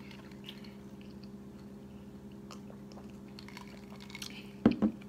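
Quiet chewing and mouth sounds of a person eating, over a steady low hum. Near the end come two short thumps in quick succession.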